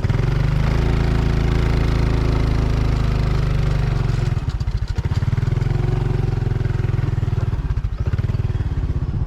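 Small motorcycle engine running under way; its note rises just after the start, eases off about four seconds in, picks up again, and eases once more near the end.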